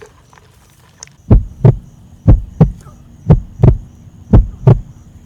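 Heartbeat sound effect: paired low thumps in a lub-dub rhythm, about one pair a second, starting about a second in.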